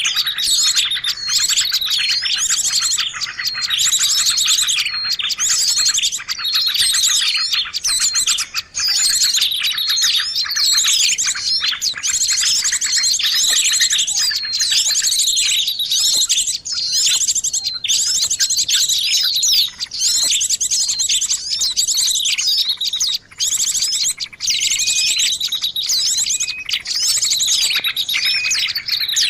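A dense, noisy chorus of many small birds chirping and trilling over one another almost without pause: a bird-catchers' lure recording of crowded bird noise, used to draw in birds of all kinds.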